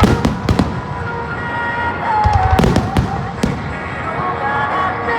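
Aerial fireworks shells bursting in sharp booms: the loudest right at the start, two more within the first second, and a cluster about two and a half to three and a half seconds in. Music with a melody plays throughout.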